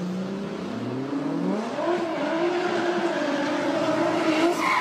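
A car engine revving hard, its pitch climbing over the first two seconds and then held high and steady at high revs.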